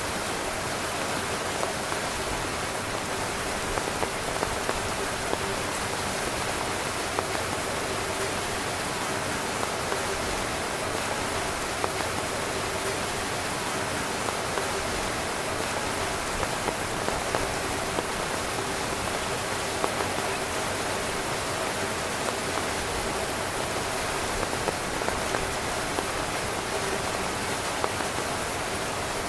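Heavy rain drumming on a tent's fabric: a steady dense hiss with frequent louder individual drop hits scattered through it.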